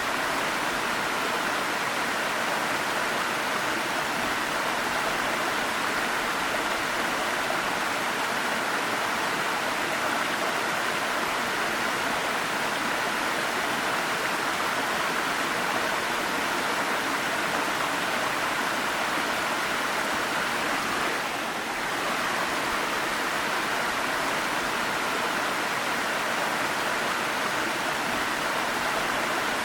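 Waterfall: a steady rush of falling water, dipping briefly about two-thirds of the way through.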